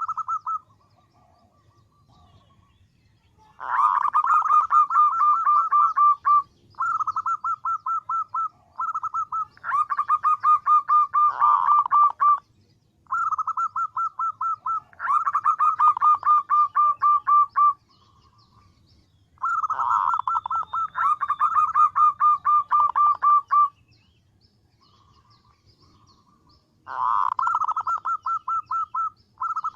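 Female zebra dove (perkutut) calling: bouts of quick, staccato cooing notes, each lasting a second or more and repeating after short pauses. This is the female's call to attract males.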